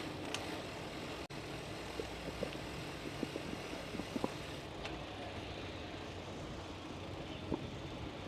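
Steady noise of a bicycle rolling along on tyres while riding, with scattered light ticks and clicks.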